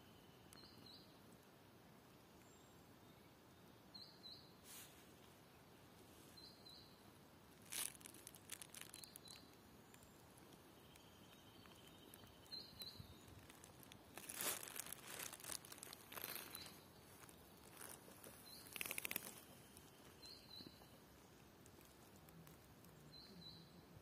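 Faint woodland ambience: a small bird repeating a short high call every two to three seconds, with several bursts of rustling and crackling in the middle, the loudest about two-thirds of the way through.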